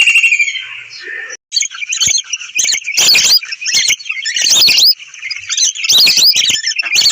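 Birds chirping: a dense run of short, quick calls that starts about a second and a half in, after a held whistle-like call fades out at the start.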